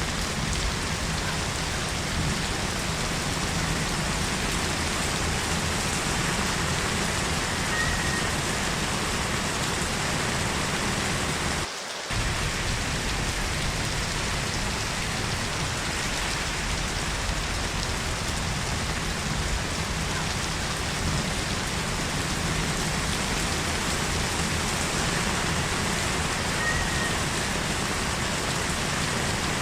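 Heavy rain falling steadily, a dense even hiss of rain on surfaces. It cuts out for a split second about twelve seconds in.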